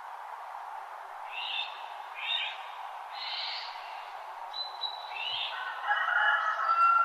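Birds calling in a dawn chorus: a few short chirps, then thin high whistled notes, and a louder warbling phrase near the end, over a steady background hiss.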